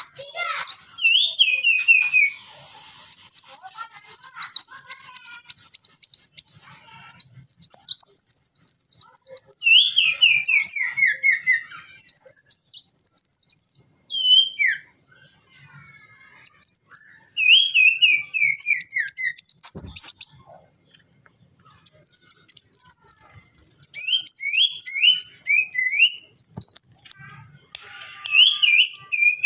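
A bar-winged prinia (ciblek) and a sunbird (kolibri wulung) singing against each other. One keeps up fast, very high chattering phrases, and the other answers with runs of lower notes that step down in pitch. The singing comes in bouts, with short pauses about halfway through and again a little later.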